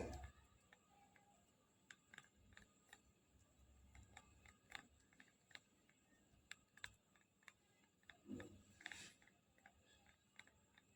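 Faint, irregular clicking and creaking from an iPad Air 5's back panel flexing over a hollow spot, a defect the unit developed within days of purchase. The clicks are scattered and uneven, with a louder knock at the start and a louder creak about eight and a half seconds in.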